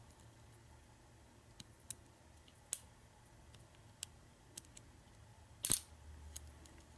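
Scattered faint clicks of a lock pick and tension wrench working the pin stack of a Master Lock Pro Series 6327 padlock held in a false set, with a sharper double click about six seconds in.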